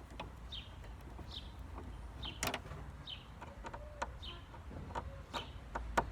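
A bird repeating a short falling chirp about every three-quarters of a second, over scattered clicks and knocks from tools and parts being handled; the sharpest knock comes about two and a half seconds in, with another near the end.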